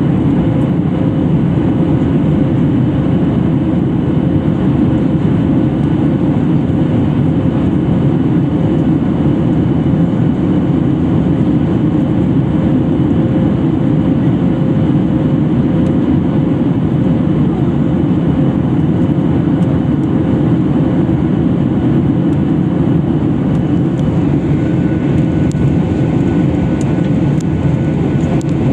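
Steady cabin noise of a Boeing 737 MAX 8 in flight: its CFM LEAP-1B turbofans and the airflow make an even, unbroken sound, with a faint constant tone running through it.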